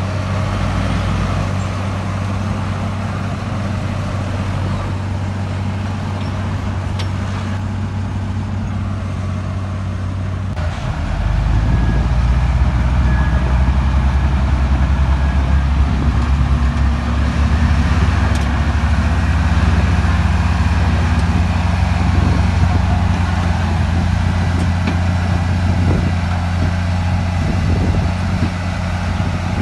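Heavy earthmoving machinery's diesel engine running steadily, then growing louder and deeper about eleven seconds in, and staying that way to the end.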